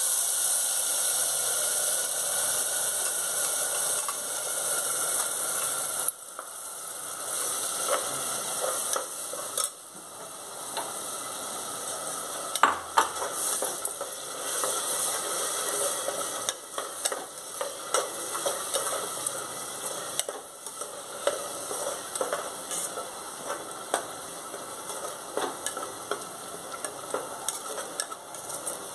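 Ground green masala paste sizzling as it fries in hot ghee in a pressure cooker, to cook off its raw smell. The sizzle is loud for about the first six seconds, then quieter, with a metal ladle stirring and scraping against the pot in scattered clicks.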